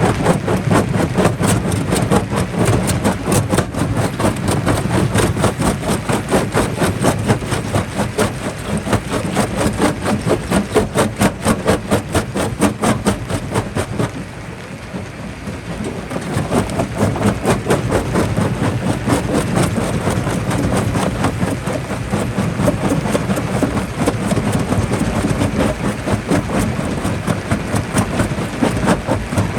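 Jaw rock crusher running, with a fast, even pulse of about four beats a second. It drops quieter for a couple of seconds near the middle, then picks up again.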